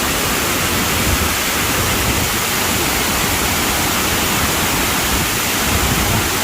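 Waterfall cascading close by: a steady, loud rush of falling water with a low rumble underneath.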